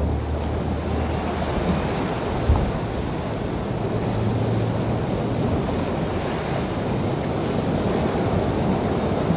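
Ocean surf washing in steadily, with a low rumble of wind on the microphone. A brief thump comes about two and a half seconds in.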